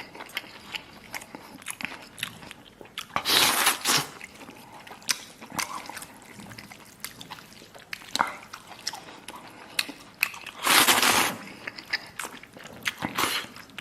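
Close-miked chewing and biting of roast lamb, with many small wet clicks. Two louder hissing noises come about three seconds in and again about eleven seconds in.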